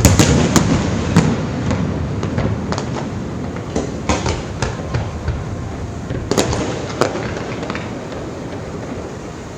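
Fireworks exploding: an irregular series of sharp bangs and crackles over a low rumble, heaviest in the first second and again about six to seven seconds in, then fading.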